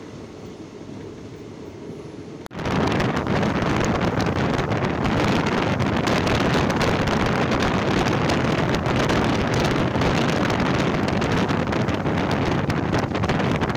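Express passenger train running at speed, heard from a coach door: a muffled rumble for the first couple of seconds, then a sudden jump to loud wind rushing over the microphone together with the coaches' running noise, as the microphone is held out into the slipstream.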